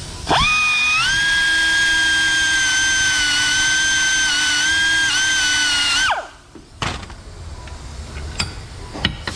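High-speed rotary grinder with a carbide burr spinning up to a steady high whine and grinding down weld metal for about six seconds, then winding down with a falling pitch. A few light taps and clicks follow near the end.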